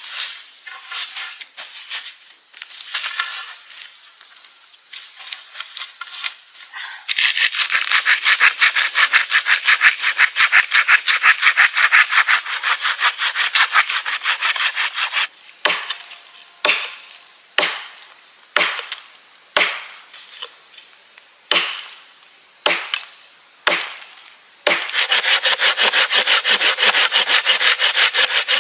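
Wood being cut with a hand saw in fast, even strokes, with a pause about halfway through. During the pause come about nine sharp knocks on wood, roughly one a second. Before the sawing starts there is quieter crackling and rubbing of wood.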